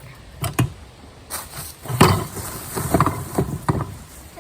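Loose sand being tipped out of a container, with a run of dull thumps and knocks as it is shaken and banged to empty it; the loudest thump comes about two seconds in.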